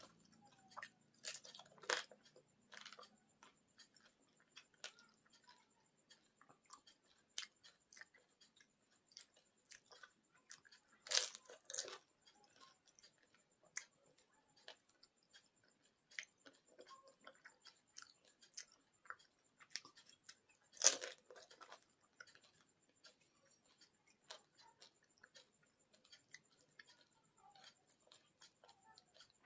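Mouth sounds of a person eating panipuri: crisp hollow puris crunching as they are bitten, with three louder crunches about ten seconds apart and chewing and small mouth clicks between.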